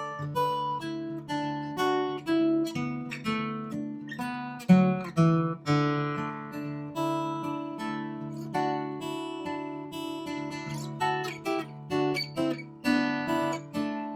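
Acoustic guitar music: plucked and strummed notes in a steady, unhurried rhythm, with a sharper accent about five seconds in.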